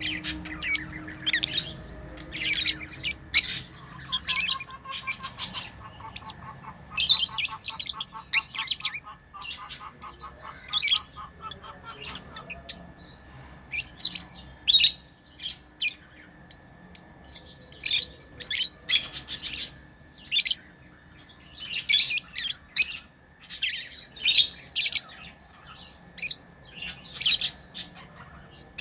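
Pet lovebirds chirping and squawking in many short, sharp calls. From about four to twelve seconds in, a lower, rapid pulsing chatter runs beneath the calls.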